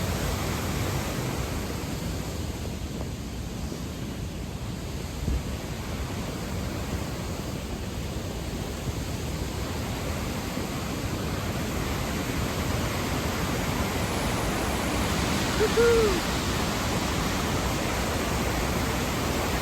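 Steady rushing roar of a waterfall. About sixteen seconds in, a person gives a short, loud "woohoo" shout.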